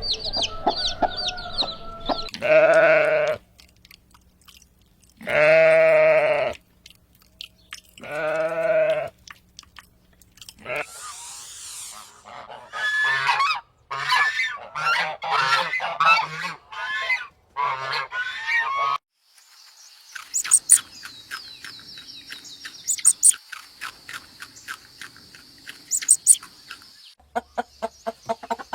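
Domestic geese honking: three long, loud honks a few seconds apart, then a run of quicker calls. Later come many short, high chirps and clicks over a steady high hiss.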